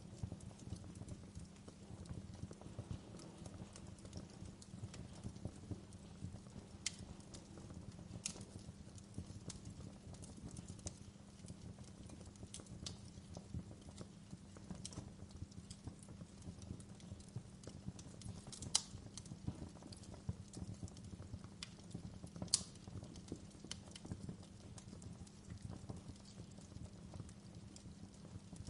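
Wood fire crackling steadily over a low rumble of flame, with a few sharper, louder pops scattered through, two standing out in the second half.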